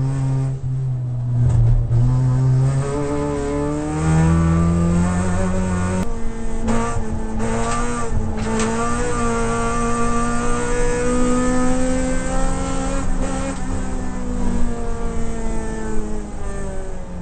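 Toyota Corolla AE92 race car's four-cylinder engine heard from inside the stripped cabin under racing load. Its pitch steps up in the first few seconds, climbs steadily through the middle and falls away over the last few seconds as the car slows.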